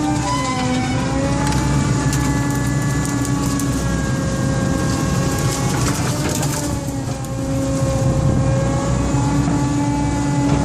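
Excavator's diesel engine running under load, with a whine that slides down and back up in pitch as the machine works, and scattered short knocks and scrapes.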